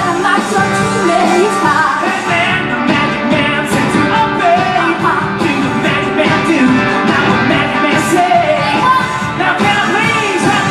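Rock band playing a song with lead vocals over guitars and drums.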